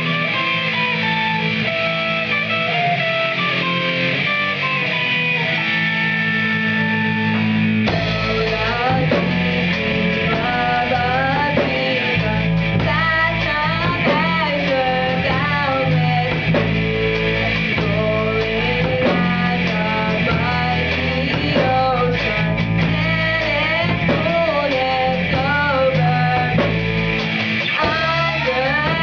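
Band music led by guitar. Bass and drums come in about eight seconds in, under a wavering melody line.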